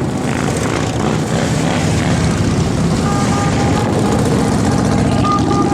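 Motorcycle engines running with a steady, loud, low rumble. An on-off higher tone sounds repeatedly from about three seconds in.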